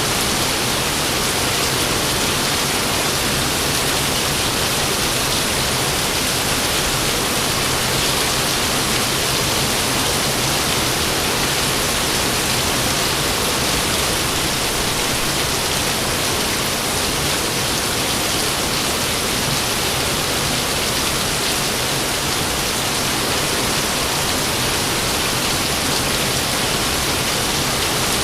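Steady, heavy rainfall: an even, unbroken hiss of rain.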